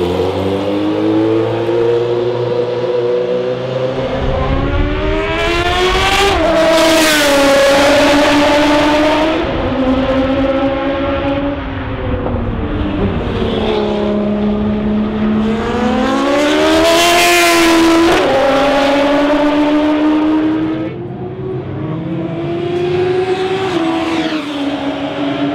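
Jaguar XJR-14's 3.5-litre V8 racing engine at high revs, the pitch repeatedly climbing and dropping through gear changes. It is loudest twice as the car passes close, about seven and seventeen seconds in.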